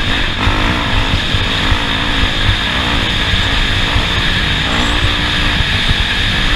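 Off-road race vehicle driving the course, its engine running steadily under a constant loud rush of tyre and wind noise.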